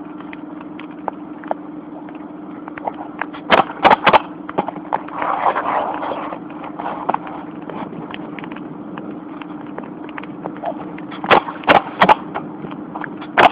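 Pneumatic roofing nail gun shooting shingle nails: two quick runs of three sharp shots, a few seconds apart, with one more right at the end. Behind them runs a constant light patter of rain and a steady low hum.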